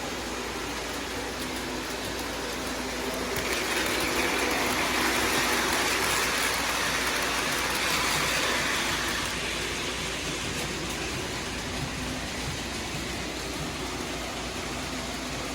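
Freight train rolling past with a steady rushing rumble of wheels on rail, which grows louder and hissier from about three to nine seconds in, then settles back.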